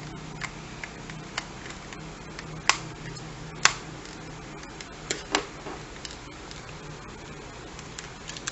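Scattered sharp clicks and taps of small hard objects being handled, about eight in all and the loudest a little under 4 s in, over a steady low hum.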